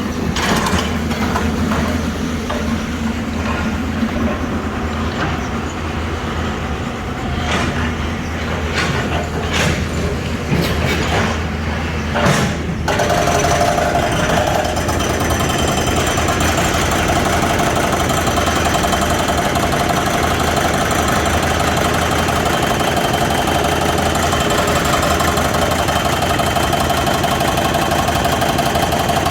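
A Hyundai 220LC-9S excavator's diesel engine is running, with scattered sharp knocks. About 13 seconds in, the hydraulic breaker starts hammering and the sound turns into a louder, dense, steady pounding with a whine in it, which holds from then on.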